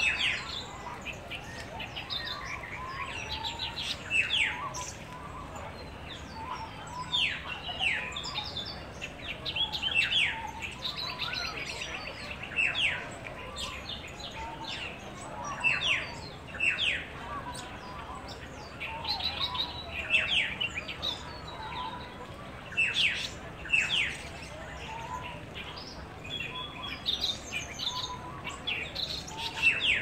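Several small birds chirping and calling: short, sharp chirps every second or two, a brief rapid trill a little before the middle, and softer short notes underneath.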